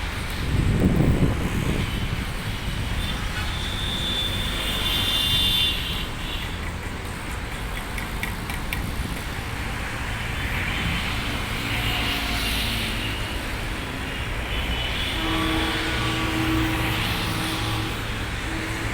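Steady engine rumble, with a louder low swell about a second in and a few brief higher tones over it.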